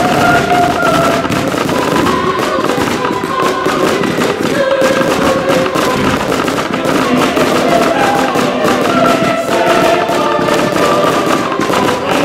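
Aerial fireworks bursting and crackling in quick succession, many sharp bangs throughout, together with music made of long held notes.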